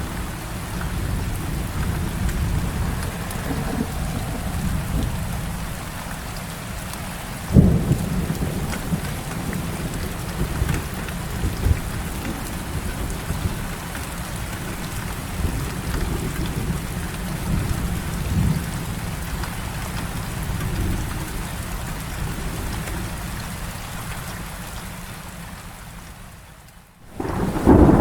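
Heavy rain falling steadily under rolling thunder, with a sharp thunderclap about a quarter of the way in. Near the end the sound fades briefly, then a louder roll of thunder begins.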